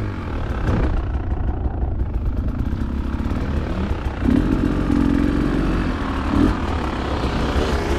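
Dirt bike engine running at low trail speed, heard from the rider's own bike, with the revs held up for a second or so about four seconds in.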